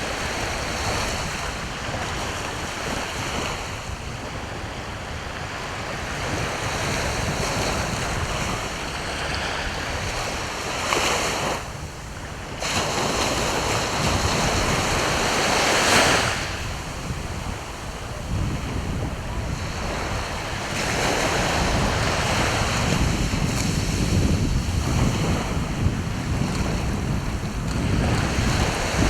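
Sea waves breaking and washing up the shore, the noise swelling and fading every few seconds, with wind buffeting the microphone.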